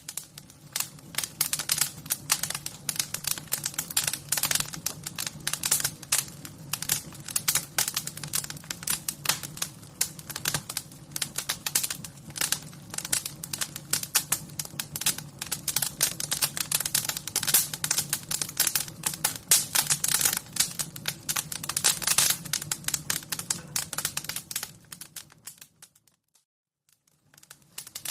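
Wood fire crackling: a dense, irregular stream of pops and snaps over a low steady hum. The fire sound drops away to near silence near the end, then starts again.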